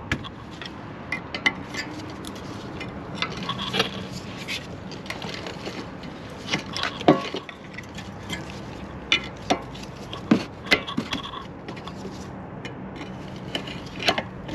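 Mazda CX-5 rear brake pads and their metal hardware clips being worked out of the caliper bracket: irregular metallic clinks, knocks and short scrapes.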